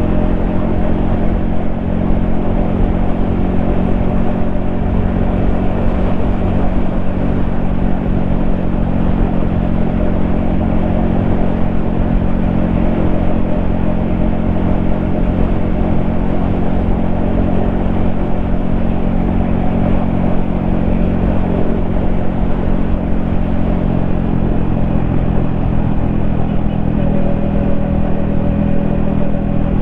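Yamaha XSR155's single-cylinder engine running at a steady cruise, with a slight change in engine speed near the end. Wind buffets the helmet-mounted microphone.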